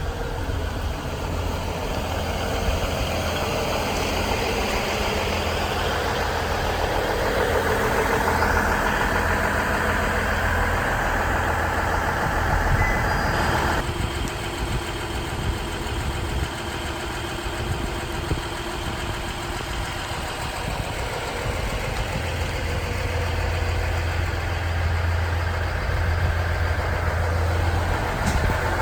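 Diesel engine of a KiHa 110 series railcar running steadily with a low hum; a rushing noise builds over several seconds and then cuts off abruptly about halfway through.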